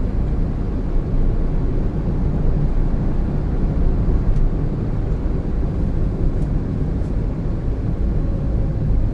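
Steady road and engine noise of a 2017 Honda N-BOX Custom, a 660cc turbo kei car, driving along, mostly a low rumble.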